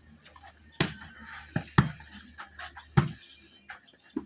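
A volleyball struck by hand during a rally: several sharp smacks at uneven intervals, each one short.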